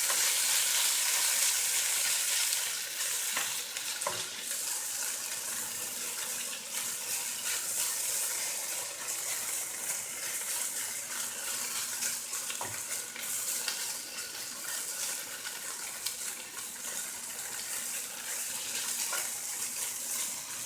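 Diced tofu sizzling steadily as it sears in coconut oil in a frying pan, a little louder for the first couple of seconds, with a few light knocks.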